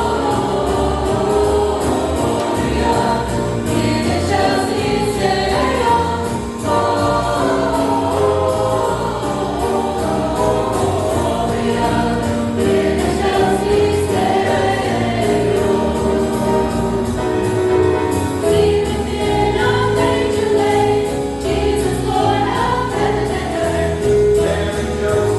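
Church choir singing a jazz-style Christmas gospel number with band accompaniment.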